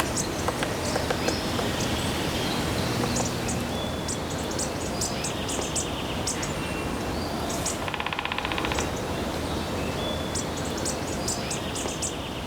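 Outdoor woodland ambience: a steady background hiss with many short, high bird chirps and ticks scattered throughout, and a rapid, evenly pulsed rattling trill about eight seconds in that lasts about a second.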